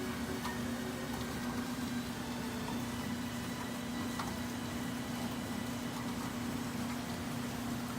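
Steady rain falling, heard as an even hiss with a few faint drop ticks, over a constant low hum.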